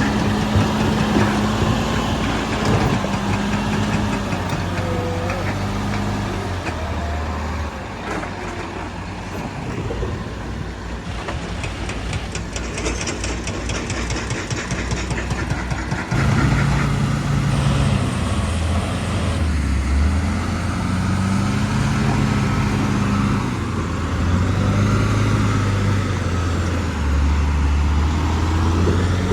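Heavy diesel engine of earthmoving machinery running and repeatedly revving up and easing back, its pitch stepping up and down. The sound dips a little in the middle and gets louder again about halfway through.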